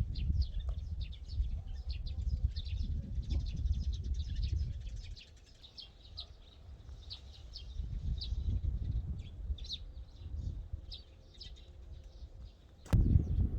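Small birds chirping over and over, short high calls throughout. Underneath, a low rumble comes and goes in stretches and turns suddenly louder near the end.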